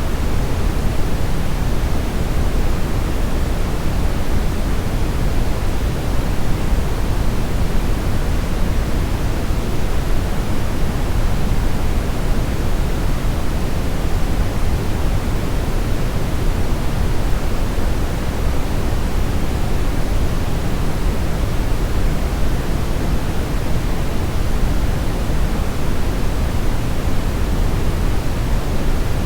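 Steady synthetic brown noise: an even, unbroken rumbling hiss, strongest in the low end and falling off toward the highs.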